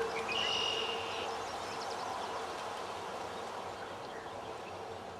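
Quiet field ambience with a steady background hiss and a faint low hum, and a brief high bird trill about half a second in.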